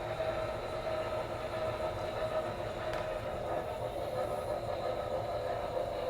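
HO scale Broadway Limited Imports Norfolk and Western Y6b model steam locomotive running at about half speed, its onboard sound system playing steady steam-engine running sounds over the rumble of the model on the track.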